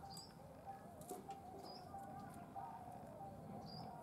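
Faint short bird chirps, three in all about every second and a half, over a faint steady wavering tone and background hiss.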